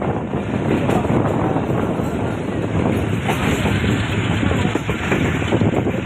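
Passenger train running on the rails as it gathers speed, heard from aboard: a steady rumble with dense rattling of wheels and carriage.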